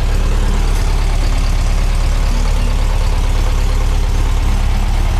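Air-cooled VW 1641cc flat-four engine, with dual carburettors, running steadily at an even speed with no revving.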